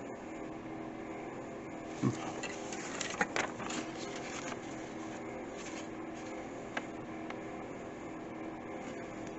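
Steady mechanical hum, like a fan or small motor running, with a few soft taps and rustles of handling about two to three and a half seconds in, and one more near seven seconds.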